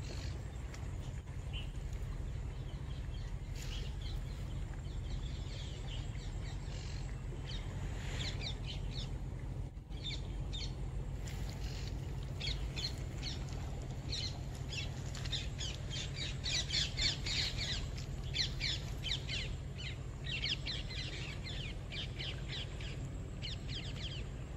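Small birds chirping in quick runs of short, high notes, busiest in the second half, over a steady low rumble.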